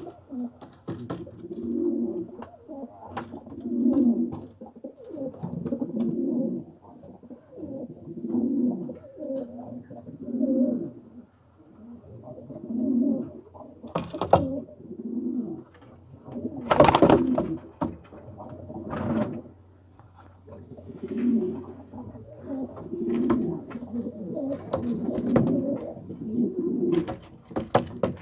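Domestic pigeons cooing over and over, a low coo phrase about every second or two, typical of courtship cooing in a pairing pen. A few short sharp noises break in near the middle, the loudest about two thirds of the way through.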